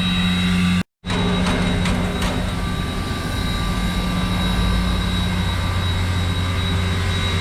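Steady drone of an idling engine, a low hum with a thin high whine over it, cut by a brief dropout about a second in.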